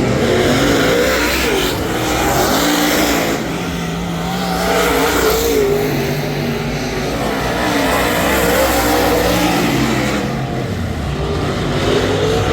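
Ford 422 cubic inch V8 in a dirt Super Late Model race car running hard on track. Its pitch climbs under throttle and drops as it lifts for the corners, several times over.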